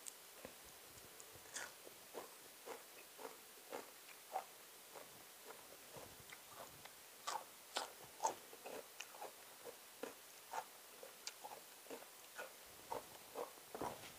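A person chewing a mouthful of raw leafy herbs and spicy salad: soft irregular crunches and wet mouth clicks, about two a second, with a few louder crunches about halfway through.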